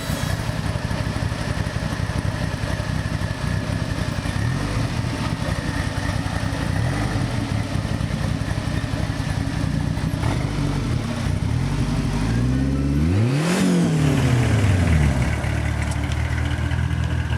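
Car engine running steadily, with one swell in engine pitch about thirteen seconds in that climbs and then falls back.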